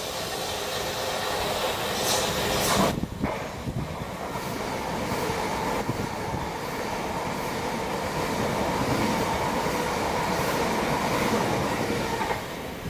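Electric multiple-unit trains running through the station without stopping: steady noise of wheels on the rails. A green Southern Class 377 Electrostar approaches and passes on the near track. The sound cuts off abruptly at the end.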